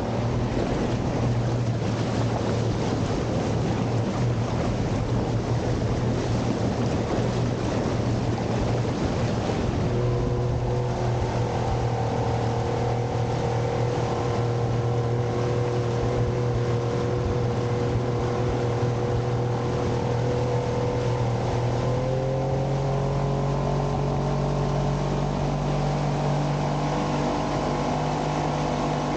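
Outboard motor running steadily as a small boat travels under way, over a constant rush of noise; about 22 seconds in the engine's pitch steps up slightly.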